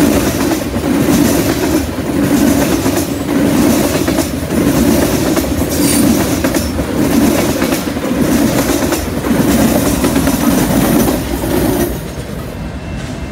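Freight train tank cars rolling past, their wheels clattering over the rails in a loud, rhythmic clickety-clack that pulses about once a second. Near the end the rear locomotive goes by and the sound drops, leaving a fainter steady high whine.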